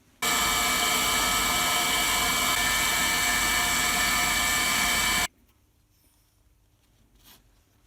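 Small high-speed power tool motor running steadily for about five seconds, a high whine, starting and stopping abruptly.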